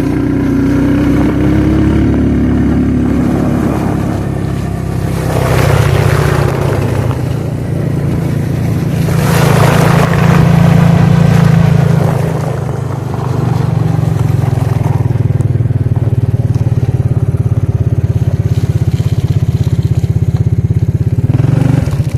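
Suzuki King Quad ATV engine running steadily as it is ridden through snow. Louder rushing noise comes over it twice, about six seconds in and again about ten seconds in.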